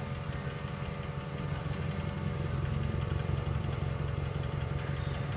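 Car engine idling unevenly with a steady low pulsing: it is misfiring because one cylinder's fuel injector or ignition coil has been deliberately disabled.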